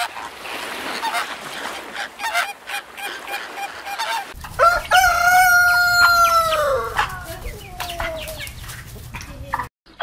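A rooster crows once, a long call of about two seconds that falls in pitch at the end, with hens clucking around it. Before it, a flock of flamingos chatters with many short calls.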